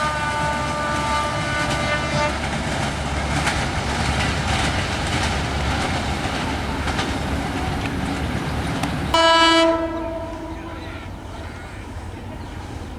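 Passenger train running past, its coach wheels clicking over the rail joints over a steady rumble. A horn sounds over the first two seconds, and a short, louder horn blast comes about nine seconds in, after which the rumble quietens as the train draws away.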